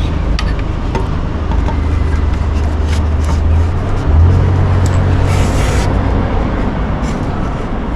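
Yamaha Serow 250's single-cylinder four-stroke engine running through a BEAMS Power Trek aftermarket muffler as a steady low exhaust drone. About four seconds in it briefly picks up in pitch and loudness, as with a small rise in revs.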